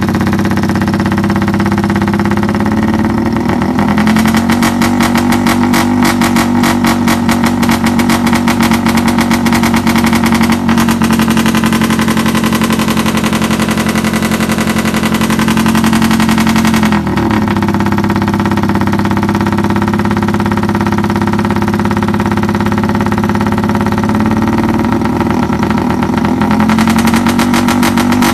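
Yamaha Y15ZR's 150 cc single-cylinder four-stroke engine being revved and held high. From about four seconds in there is a fast stuttering pulse. It drops back to a lower hold at about seventeen seconds and rises again near the end.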